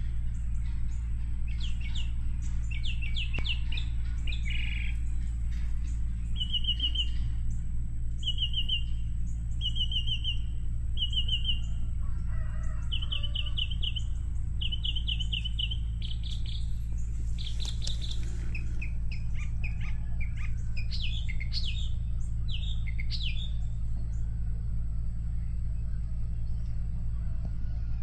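Small birds chirping, singing runs of short, quick trills repeated several times in a row, with scattered chirps later on, over a steady low hum.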